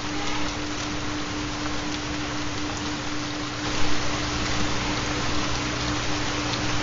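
Recorded steady rain with a continuous low steady tone underneath, the carrier of a theta binaural beat. A little past halfway the rain gets slightly louder, with a brief louder patch just after the change.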